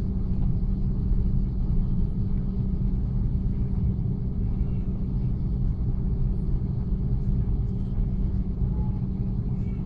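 Steady low rumble of an Airbus A330-300 heard from inside the cabin during takeoff.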